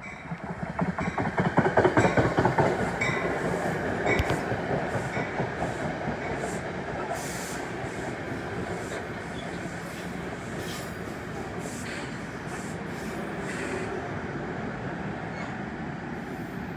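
NJ Transit passenger train passing, its wheels clattering rapidly over the rail joints, loudest a couple of seconds in, then settling into a steady rumble of the cars that slowly fades.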